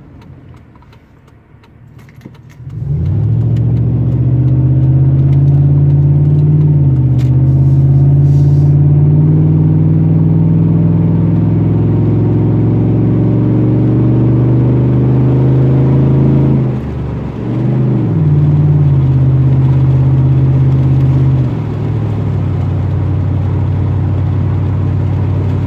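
Truck engine and exhaust pulling under acceleration, starting about three seconds in: a loud, deep drone whose pitch climbs slowly and drops back at gear changes about seven, seventeen and twenty-one seconds in.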